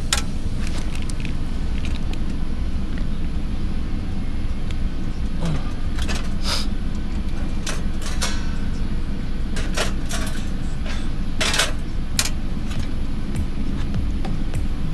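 Steady low outdoor rumble, like distant traffic or wind, with a scattered handful of short clicks and knocks from things being handled.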